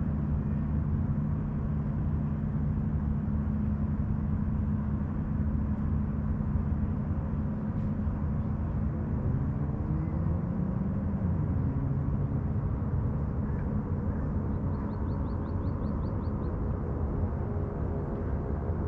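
A motorboat engine runs steadily, its pitch sliding and then dropping about halfway through as the boat goes by. A small bird gives a quick high trill near the end.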